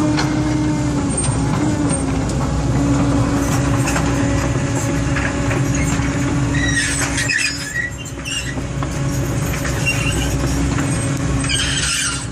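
Excavator's diesel engine and hydraulics running steadily at work, with brief high squeals a little after halfway and again near the end.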